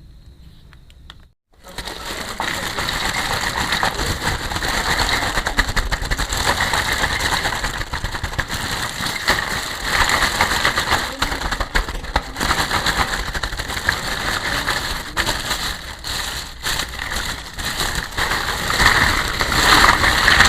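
Plastic packaging crinkling and rustling as it is handled, a dense crackle that starts suddenly about a second and a half in and keeps on.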